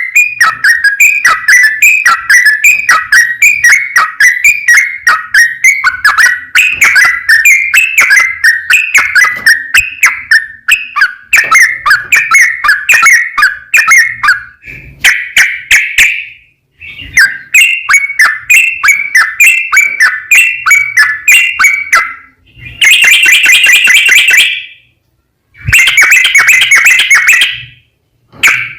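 Yellow-vented bulbul (trucukan) singing a long, fast run of repeated whistled, chattering phrases with barely a pause. It breaks off briefly about halfway through and twice more near the end.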